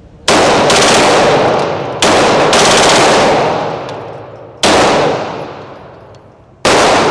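Six 9mm pistol shots from a Smith & Wesson M&P 2.0 fitted with a forced-reset trigger: two quick pairs about half a second apart, then two single shots. Each shot rings out with a long echo.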